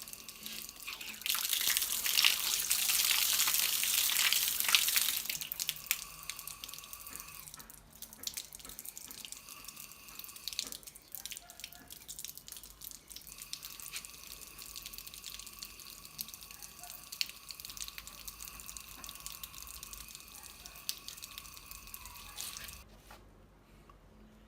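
Water running out of a pipe outlet. It gushes loudly for about four seconds, then flows more weakly with scattered drips and splashes, and stops abruptly near the end.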